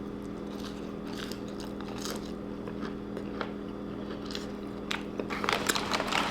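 A person chewing crinkle-cut French fries close to the microphone: soft crunches and mouth sounds, more frequent toward the end, over a steady low hum.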